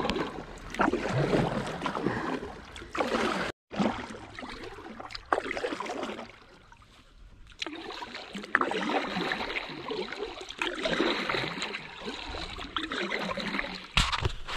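Water splashing and rushing around a kayak in swells as it is paddled through a small river rapid, with a brief dropout about three and a half seconds in.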